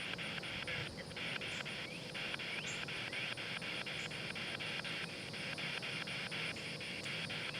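Spirit box scanning radio frequencies: a steady hiss of static chopped into short pieces about five times a second as it jumps from channel to channel.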